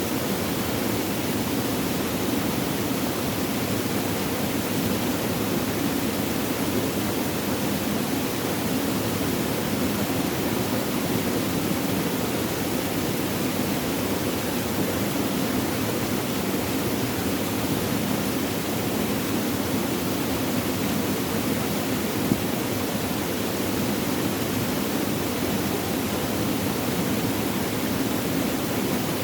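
Flowing water: a steady, unbroken rush and babble with no pauses or changes.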